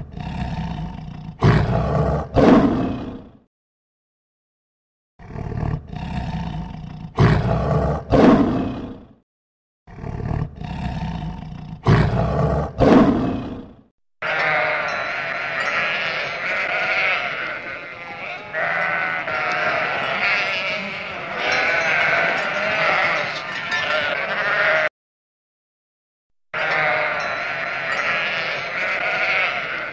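Lion roaring and growling in three bursts of a few seconds each, then sheep bleating continuously, broken once by a short gap.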